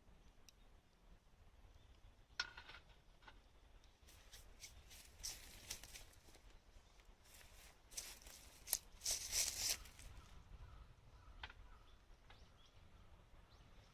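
Wood fire burning in a metal pail can, crackling faintly, with scattered sharp clicks and a run of louder crackling rustles between about four and ten seconds in.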